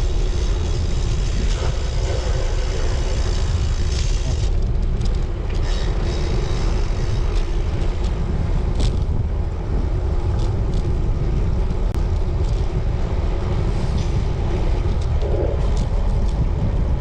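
Wind rushing over the microphone of a road bike being ridden, a steady low rumble; a higher hiss over it thins out about four seconds in.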